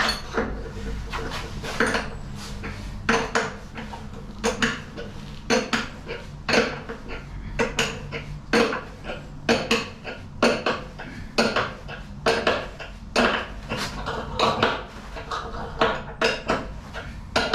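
Sharp metallic clinks from hand tools on metal parts of an LG washing machine being taken apart, struck at a steady pace of about one a second, each with a short ring.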